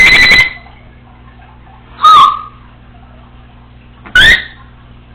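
Congo African grey parrot giving three loud, short whistled calls about two seconds apart: the first held steady on one high note, the second bending down and levelling off, the third sliding upward.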